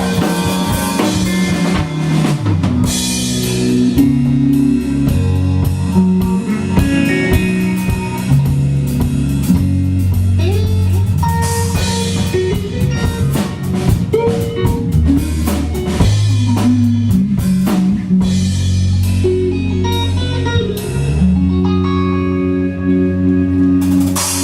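Live band playing an instrumental passage with no singing: guitar over a drum kit and a low, moving bass line.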